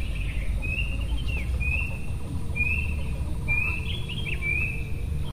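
A bird calling, repeating a short, steady high note about once a second, over a low rumble.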